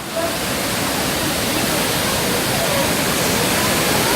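Steady rush of falling water from a waterfall, a loud even hiss that steps up slightly about a quarter second in.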